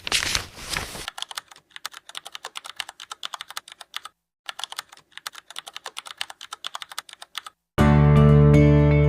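Computer keyboard typing: a fast run of key clicks, several a second, with a short pause midway. A brief rushing noise comes just before it at the start, and music begins near the end.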